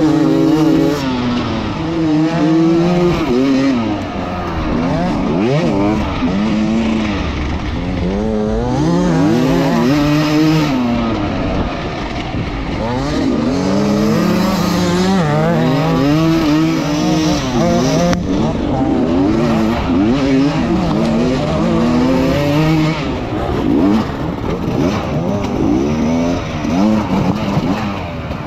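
Dirt bike engine revving hard, its pitch climbing and dropping over and over, with several stretches held at steady high revs.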